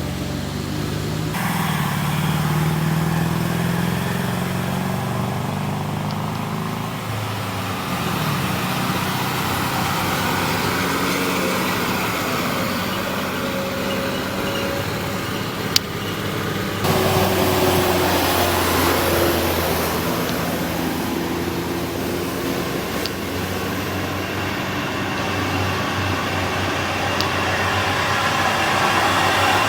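Diesel truck engines running slowly under load on a steep climb. The sound shifts abruptly twice, about a second in and around halfway, with a sharp click just before the second shift.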